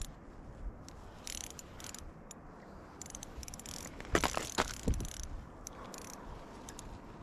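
Fishing reel being cranked in short bursts of clicking while a hooked bass is fought up through the ice. A cluster of loud knocks comes about four to five seconds in.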